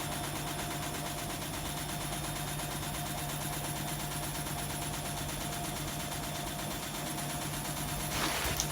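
Hotpoint WMA30 washing machine running steadily through a spin attempt with an unbalanced load, with a steady motor hum. A brief burst of noise about eight seconds in.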